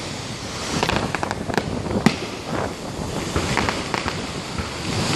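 Aerial firework shells bursting in quick succession: a run of sharp bangs and pops over a steady haze, the loudest bang about two seconds in.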